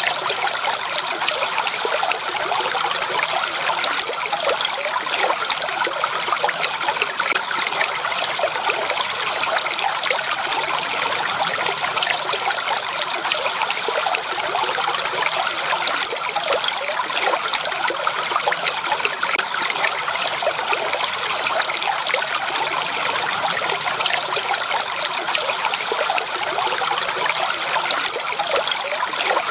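Natural running water, a small stream trickling steadily over its bed, with many small splashes and no let-up.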